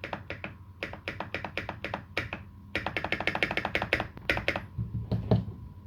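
Mechanical keyboard with lubed Holy Panda tactile switches and GMK keycaps being typed on in fast runs of keystrokes, several a second, with one heavier, deeper key stroke near the end.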